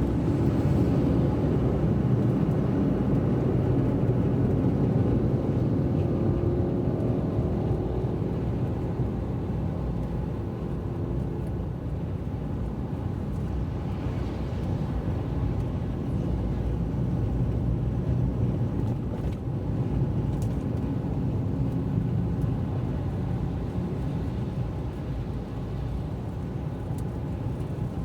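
A car driving along, with a steady low engine and road rumble. Faint engine tones rise and fall in the first several seconds, then the sound eases a little.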